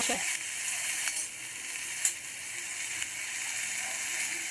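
Chopped okra and onion sizzling in oil in a steel kadhai while being stirred with a steel spatula. There are two short clicks of the spatula against the pan, about one and two seconds in.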